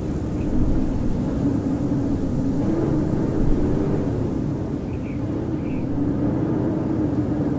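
Howling blizzard wind: a steady low rush with a howl that wavers slowly up and down in pitch.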